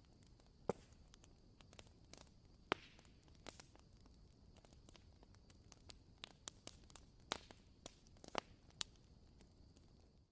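Wooden-wick candle crackling: faint, irregular sharp pops and ticks like a tiny campfire, over a low steady hiss. The sound cuts off suddenly at the end.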